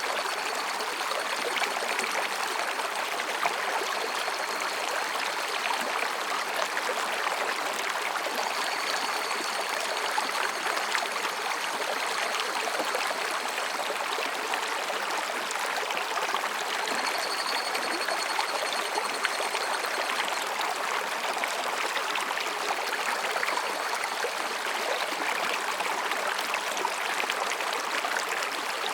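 Mountain stream babbling steadily over and between rocks. Faint, thin, high calls of higurashi (evening cicadas) come and go above it, most clearly about a third of the way in and again past the middle.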